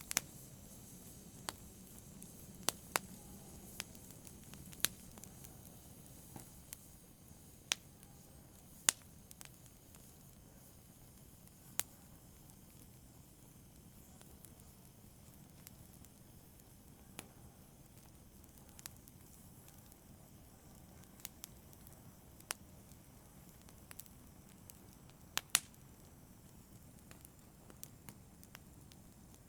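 Fire in a brazier crackling softly: irregular sharp pops and snaps, a couple of them louder, over a faint steady hiss.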